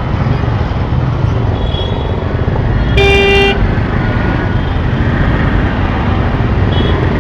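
Heavy street traffic: a steady rumble of engines. One loud vehicle horn honks for about half a second about three seconds in, with a couple of faint distant horns around it.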